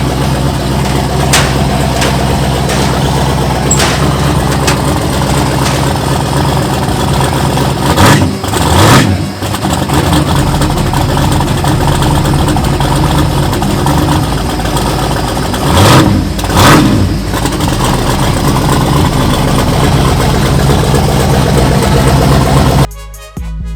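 Loud drag-racing engine idling with a deep, steady note, with two spells of revving or passing engines about eight and sixteen seconds in, the pitch rising and then falling. Music cuts in near the end.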